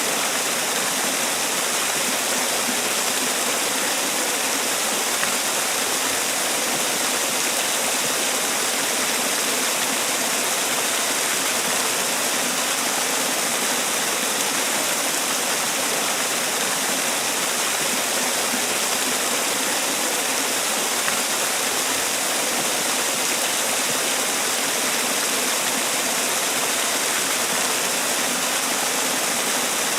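Man-made waterfall: water falling and splashing in a steady, even rush with no let-up.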